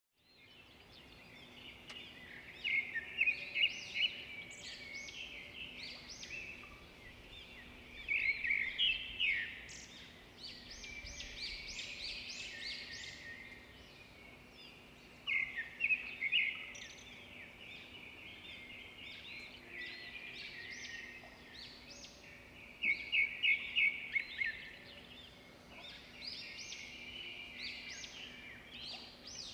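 Birds chirping in repeated bursts of quick, high notes, with a faint, steady, low hum underneath.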